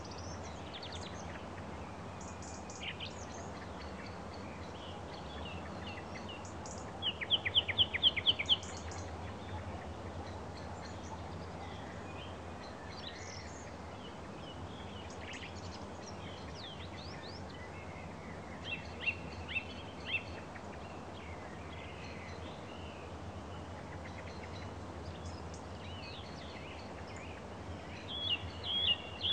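Small birds chirping and singing over a steady low rumble, with a fast run of about eight loud chirps a little after seven seconds in and more bursts of calls near the end.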